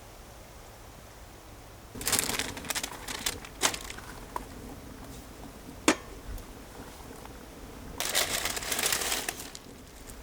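Crinkling and rustling of something being handled, in two bursts, with a single sharp click between them.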